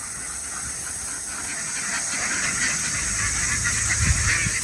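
A large flock of domestic ducks quacking and chattering together, a dense crowd of calls that grows louder over the second half, over a steady high hiss.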